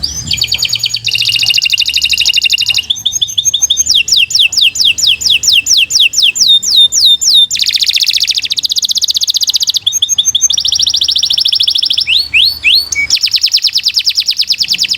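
Domestic canary singing a long, nearly unbroken song of fast trills and rolls. In the middle comes a run of repeated descending whistles, about four a second, and a few rising notes come near the end.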